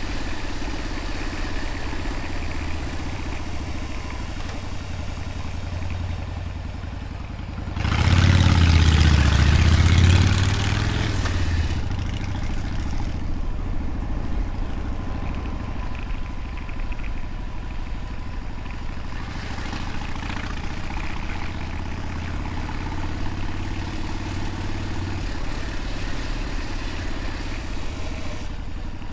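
Motorcycle engine running steadily while riding. About eight seconds in, the engine rises in pitch and gets louder for roughly three to four seconds, with a rush of wind noise, then settles back to a steady run.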